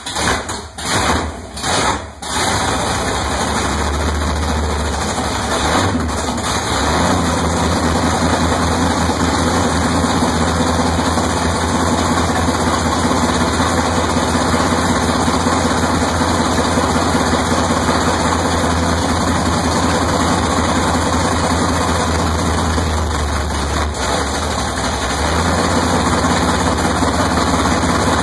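A freshly built V8 in a 1970 Pontiac Trans Am catches with a few uneven firings over the first two seconds. It then settles into steady running on its first start-up.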